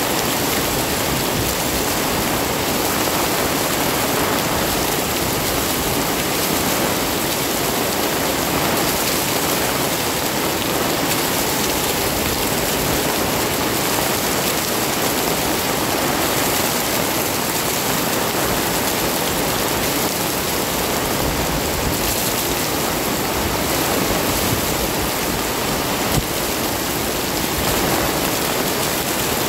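Heavy rain pouring steadily, a loud, even, unbroken hiss of water.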